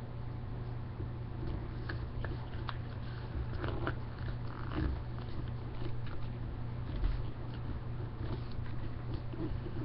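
Sheet of printer paper being folded and creased by hand: scattered crinkles and small taps, busiest a few seconds in, over a steady low electrical hum.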